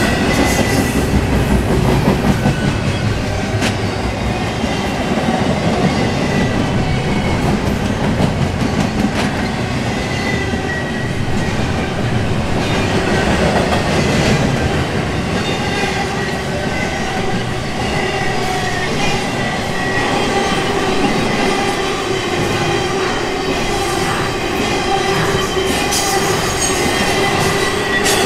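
Intermodal freight cars rolling past at speed: a continuous rumble of steel wheels on rail with occasional clicks and clanks, and a thin steady squeal from the wheels over the top.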